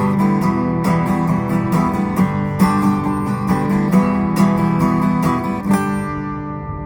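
Instrumental ending of a song: strummed acoustic guitar in a steady rhythm. It finishes on a last chord about six seconds in that rings out and fades away.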